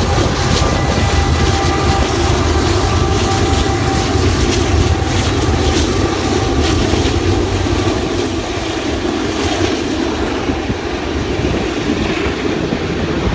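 Long freight train passing close by with its horn sounding, the steady horn tones cutting off about halfway through, leaving the heavy rumble and clatter of the cars rolling past.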